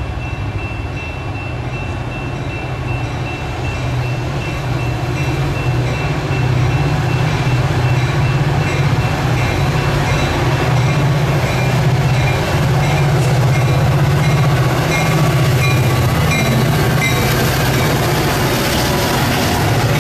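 Diesel-hauled Metra commuter train approaching and drawing alongside, the locomotive's engine running with a steady low hum that grows louder over the first several seconds, then holds.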